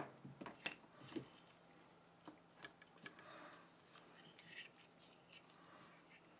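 Faint handling sounds of small plastic objects: a sharp click right at the start, then scattered small clicks and soft rustling.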